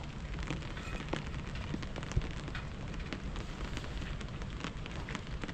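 Steady rain, with many scattered sharp ticks and one louder pop about two seconds in.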